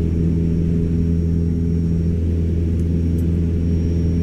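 Cessna 172's piston engine and propeller droning steadily, heard inside the cabin.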